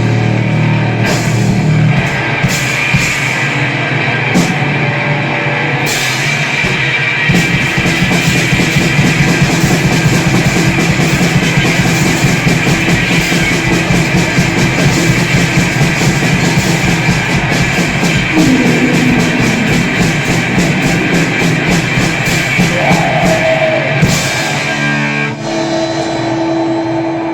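A grindcore duo's distorted electric guitar and drum kit playing loud and fast, with very rapid, even drumming through most of the stretch. Near the end the drums thin out, leaving held guitar notes.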